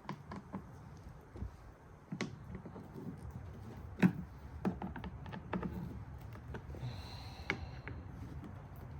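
Scattered light clicks and taps of parts and tools being handled on the generator, with one louder knock about four seconds in and a brief high squeak near the end.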